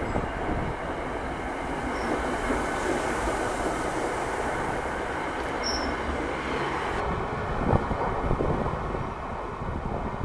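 NJ Transit passenger train running past close by, a steady noise of wheels on the rails that eases a little near the end as the last car clears.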